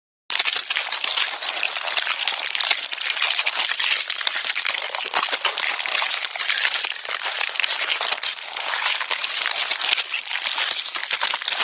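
Dense, continuous crackling and rustling made of many tiny rapid clicks, offered as the sound of a mass of ants moving.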